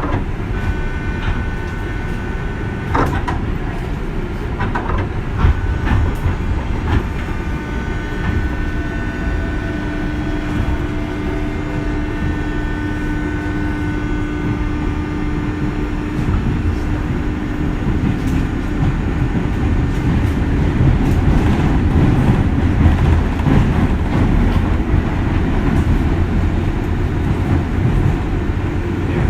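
A 201 series electric train running, heard from inside the car: a steady low rumble with scattered clicks from the rails and several faint steady whining tones in the first half. It grows somewhat louder after about twenty seconds.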